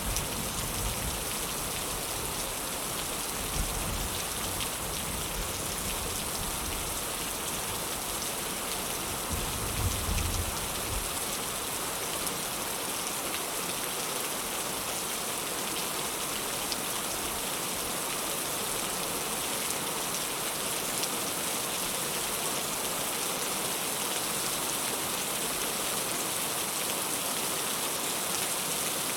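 Heavy rain falling steadily, an even hiss, with two brief low rumbles, one about three to four seconds in and a longer one around ten seconds.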